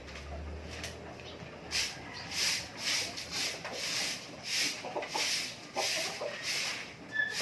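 Rhythmic scraping or brushing strokes, about two a second, starting about two seconds in.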